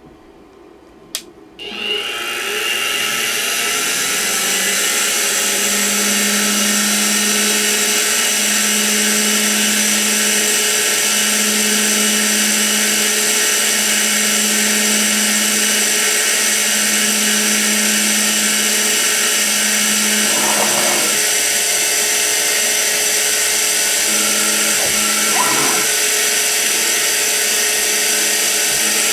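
Sieg X2 mini-mill spindle motor starting after a click and running at a steady speed, with a high hiss and a steady hum. There are two brief rough patches near the end.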